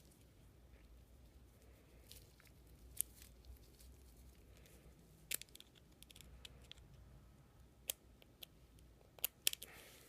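Small metal parts of a Leibinger numbering machine clicking as they are handled and fitted back together: a few scattered sharp clicks, the loudest two close together near the end.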